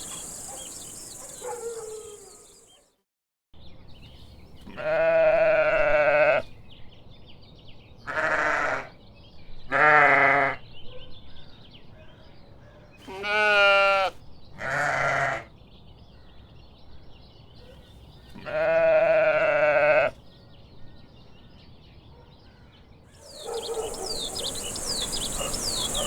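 Sheep bleating six times, each call short and separate, one of them with a quick quavering waver in pitch.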